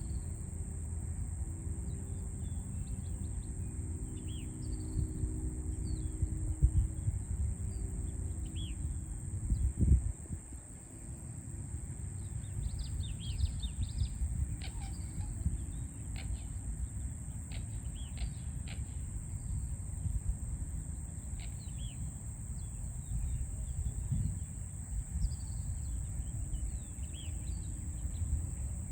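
Small birds chirping in short, scattered calls over a steady low rumble of city traffic, with a steady high-pitched tone running underneath. The rumble swells briefly about ten seconds in.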